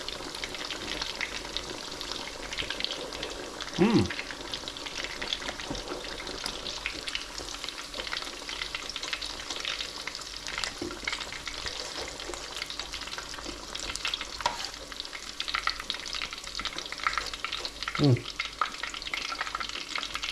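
Battered chicken-and-onion bhajis frying in hot oil, with a steady dense crackle and sizzle. Twice, about four seconds in and near the end, a short hum-like voice sound rises above it.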